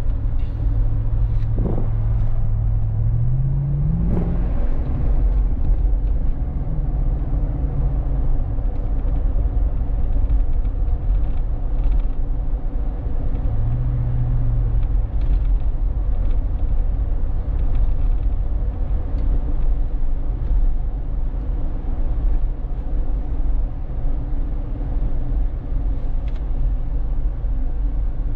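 Interior drone of a 2013 Lexus GX460's 4.6-litre V8 through a Magnaflow exhaust while driving, a steady low rumble with road noise. The engine note rises in pitch as it accelerates about three to four seconds in, then falls back, and swells briefly again about halfway through.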